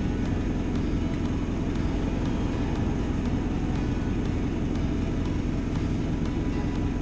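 Steady low rumble of a Toyota Voxy minivan on the move, road and engine noise as heard inside the cabin.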